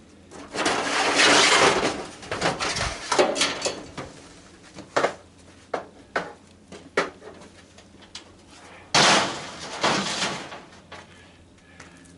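Metal and plastic parts of a tanning bed being handled while it is dismantled: two long scraping, rattling stretches, about half a second in and again near nine seconds, with scattered sharp clicks and knocks between them.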